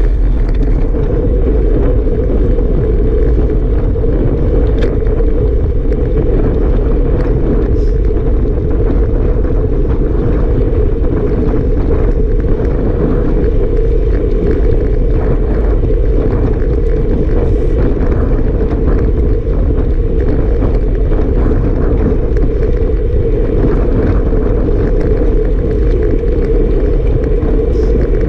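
Strong wind buffeting the microphone: a loud, steady, deep rumble.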